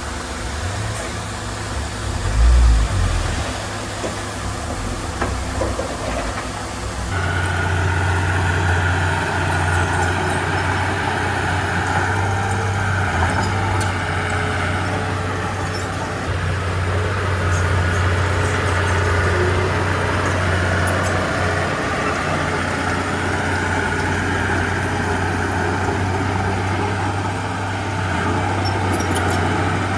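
Heavy earthmoving diesel engine running steadily under work, with a loud low thud about two and a half seconds in. The sound changes abruptly about seven seconds in and runs louder from then on.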